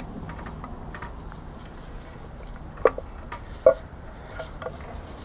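Scattered light clicks and taps of hand tools and metal engine parts being handled during an engine teardown, with two sharper metallic clinks about three and three and a half seconds in.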